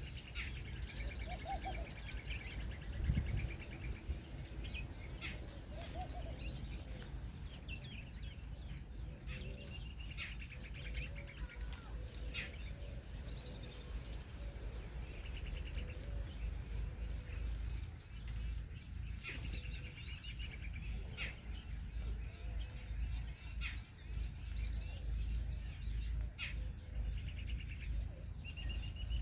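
Small birds chirping and twittering in short repeated trills throughout, with scattered sharp clicks over a steady low rumble.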